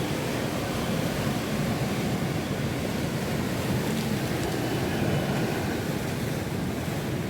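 Rough monsoon sea and strong wind: a steady, low rushing noise of surf without separate wave breaks standing out.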